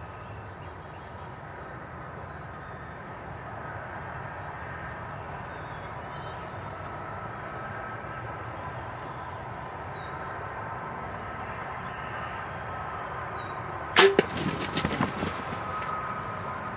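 Steady outdoor background with a few faint, short bird chirps. About 14 seconds in, a bow is shot at a turkey: one sharp, loud crack, followed by about a second and a half of smaller clattering knocks.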